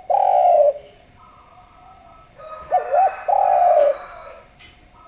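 Spotted dove (Javanese derkuku) cooing. A long, drawn-out coo ends just after the start. About two and a half seconds later comes a short wavering double note, then another long coo, as the phrase repeats about every three and a half seconds. Fainter bird calls and chirps sound in the gaps.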